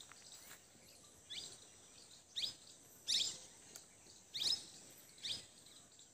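A bird calling over and over, a short downward-sliding call about once a second, over faint outdoor background noise.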